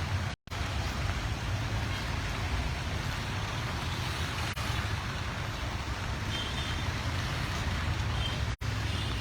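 Steady street traffic noise with a low rumble of passing vehicles. The sound cuts out completely for an instant twice.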